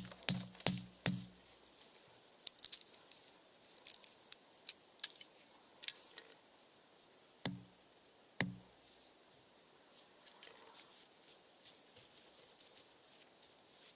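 Wood fire crackling with scattered sharp pops, with a quick run of hollow knocks in the first second and two more knocks about seven and eight seconds in.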